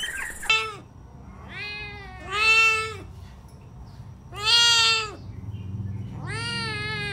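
Domestic cat meowing repeatedly, about four meows: two in quick succession, then a pause, then another, and a last one long and drawn out.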